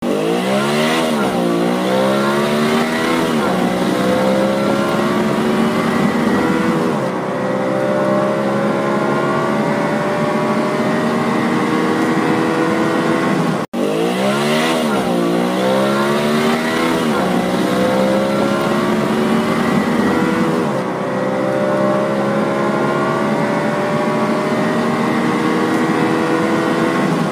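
Race-car engine revving sound effect: the pitch sweeps up and down in two quick revs, then holds at high revs and slowly climbs. The same passage plays twice, restarting after a brief dropout about halfway through.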